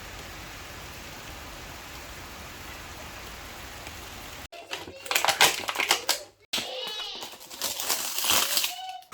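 A steady hiss for about four and a half seconds, then an abrupt cut to irregular clattering and rustling, with a small child's voice near the end.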